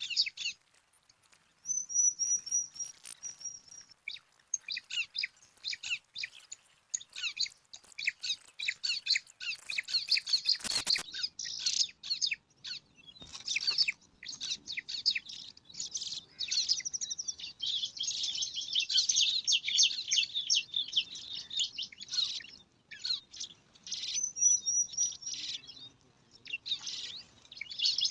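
Bar-winged prinia nestlings begging for food: rapid high-pitched chirping in long runs with short pauses. There is a brief noise about eleven seconds in.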